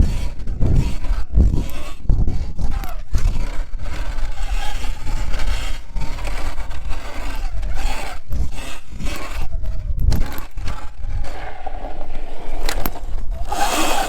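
Segway X160 electric dirt bike being ridden over a dirt track: low rumbling gusts and knocks with tyres scraping over dirt, and a faint whine that rises and falls with the throttle in the middle seconds.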